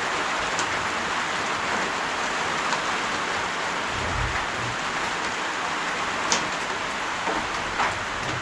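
Steady rain shower: a constant hiss of falling rain with a few sharper drop clicks, the clearest about six seconds in.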